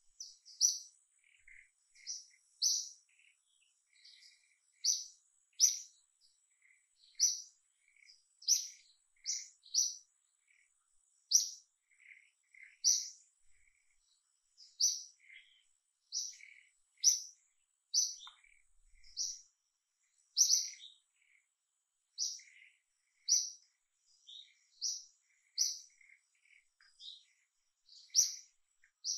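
A bird chirping with short, sharp high notes about once a second, often in quick pairs, with fainter, lower chirps in between.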